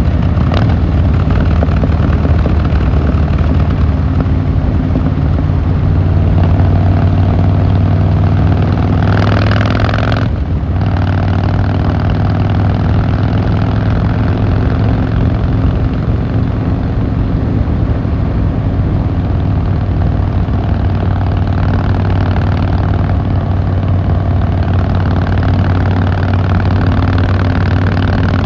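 Harley-Davidson Fat Boy Lo's V-twin engine and exhaust running at a steady, even pitch, with a brief rush of noise about nine to ten seconds in.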